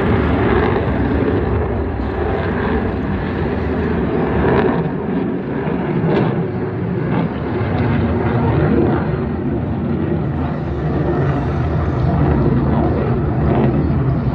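Aircraft flying over, its engine noise loud and steady throughout.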